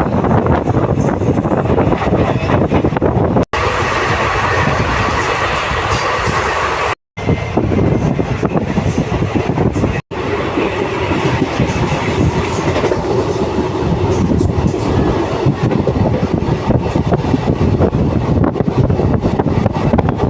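Passenger train running along the track, a steady rumble with wheels clattering over the rails. The sound drops out abruptly three times for a moment, about three and a half, seven and ten seconds in.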